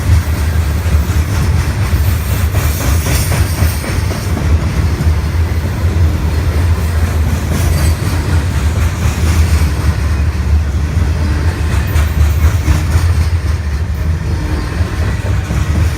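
A train running past, a loud steady rumble with no let-up.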